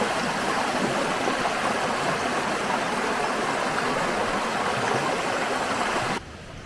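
Rushing water of the River Fowey's cascades, a steady dense rush that cuts off suddenly about six seconds in, leaving only a faint hiss.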